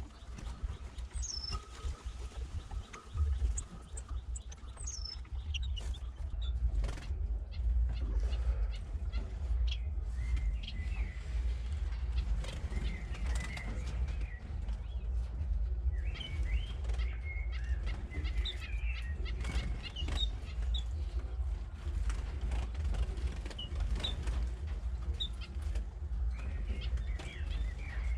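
Small aviary finches chirping in short scattered calls, with wings fluttering, over a steady low rumble.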